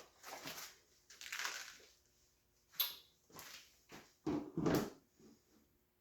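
Handling noises as the bike's gas tank is worked up and off the frame: a run of short scrapes and rustles, with a sharp click about three seconds in and a louder pair of scrapes near the end.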